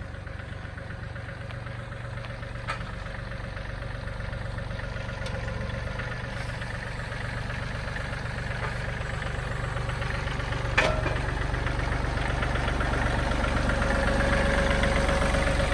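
John Deere 3032E compact tractor's three-cylinder diesel engine idling steadily while it warms up, growing gradually louder, with one sharp knock about eleven seconds in.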